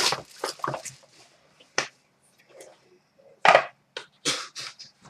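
Trading cards and their plastic cases and packaging being handled: a run of short, sharp clicks and snaps at irregular spacing, the loudest about three and a half seconds in.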